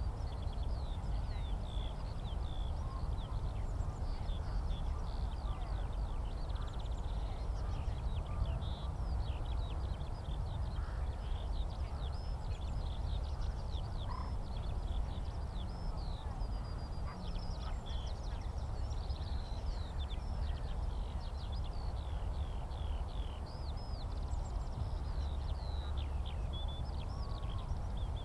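Eurasian skylark song: an unbroken stream of fast, high warbling and chirping notes, over a steady low rumble.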